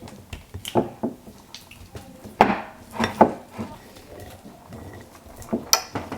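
Dishes and cutlery clattering in a kitchen: a run of uneven knocks and clinks, the loudest about two and a half seconds in and another pair near the end.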